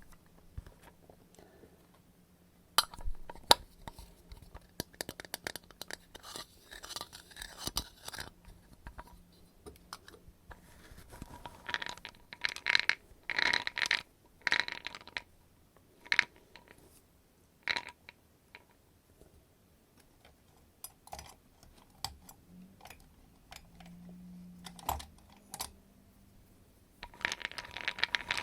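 Close-miked ASMR trigger sounds: scattered taps and clicks with short scratchy rustles, growing denser about six seconds in and again around twelve to fifteen seconds.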